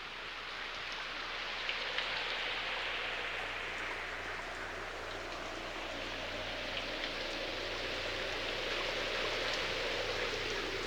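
Steady rain-like hiss with scattered drop-like ticks, slowly swelling in level, its brightness slowly shifting up and down.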